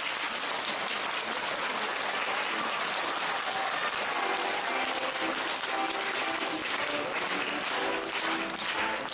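Audience applauding at the end of a song; from about halfway in, music with held notes plays softly under the applause.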